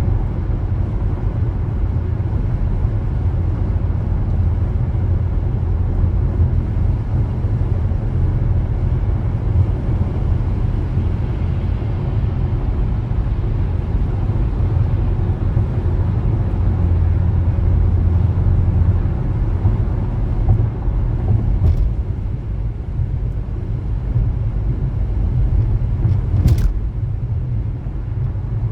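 A car being driven: steady low road and engine rumble, with two brief clicks in the later part.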